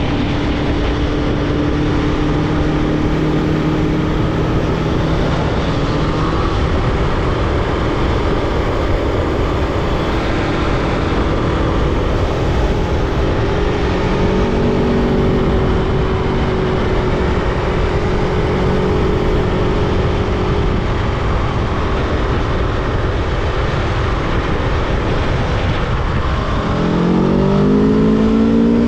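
Aprilia Tuono V4 motorcycle's V4 engine running at fairly steady revs under heavy wind rush. Near the end the revs climb as it accelerates.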